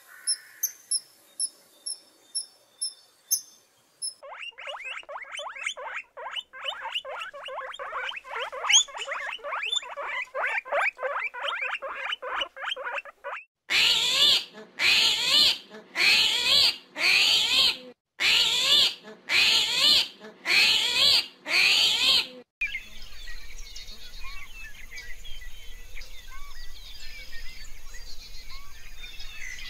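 A run of animal sounds. First, high thin chirps about twice a second. Then a long fast series of rapid calls, then eight loud harsh calls about a second apart, and finally an outdoor background with faint bird chirps.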